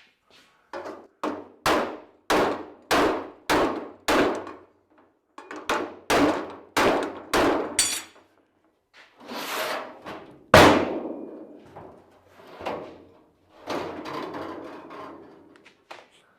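Hammer blows on a sheet-steel car roof panel, working out a small ding in its domed crown: runs of sharp clanging strikes about two a second, with one louder hit about ten and a half seconds in.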